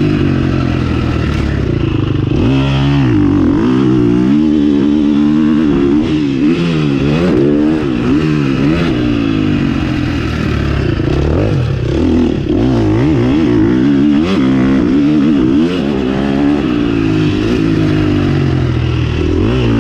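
KTM 350 SX-F four-stroke single-cylinder motocross engine being ridden hard. The revs rise and fall over and over, with sharp drops in pitch every few seconds as the throttle is chopped and opened again.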